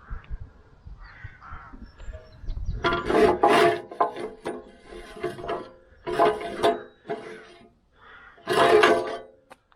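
Crows cawing: a series of harsh, loud caws in clusters, starting about three seconds in.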